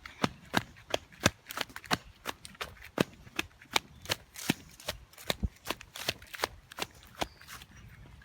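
A quick, irregular series of sharp crackling snaps, several a second, the loudest about one and three seconds in.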